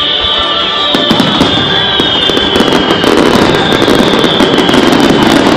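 Fireworks display going off: dense crackling and popping that thickens about a second in and builds toward the end, with a high steady whistle-like tone sliding slowly downward.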